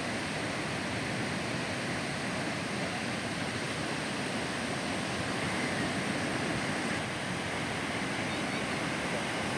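Ocean surf breaking and washing on a sandy beach, a steady roar of waves.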